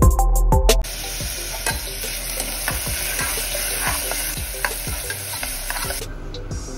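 Split lentils sizzling in hot oil in an aluminium pressure cooker while a spoon stirs them, scraping the pot with many small ticks. It opens with a louder clattering second, and near the end the sizzling gives way to a quieter hiss.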